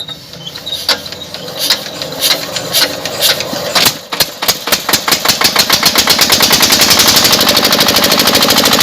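A person imitating an engine with their voice: scattered pops that speed up into a fast, even putter, then cut off suddenly near the end.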